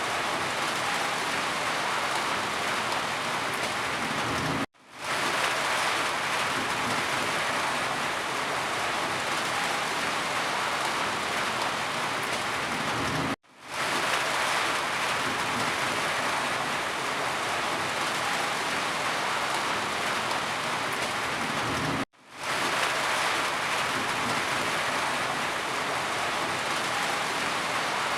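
Steady rain falling, an even rushing patter. It cuts out abruptly three times, about every nine seconds, and fades back up within half a second each time.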